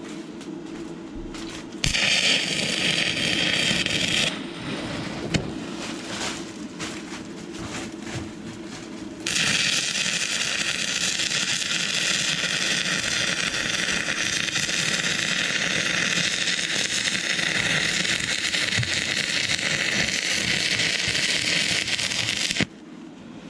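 Stick welding arc with a 6011 electrode on rusty, painted metal: the arc strikes with a sudden loud crackling hiss and goes out after about two seconds, crackles and spits unevenly while being restarted, then burns steadily for about thirteen seconds before being broken off sharply near the end. A steady low hum sits underneath.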